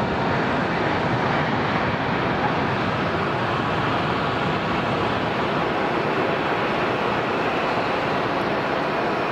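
Jet airliner engines making a steady rushing noise.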